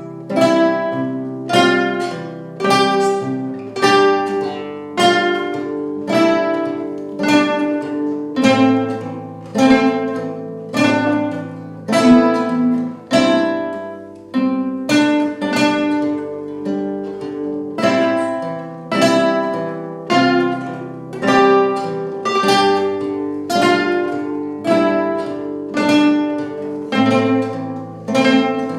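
Guitar playing an instrumental piece, with a sharply plucked chord about once a second, each ringing and fading before the next.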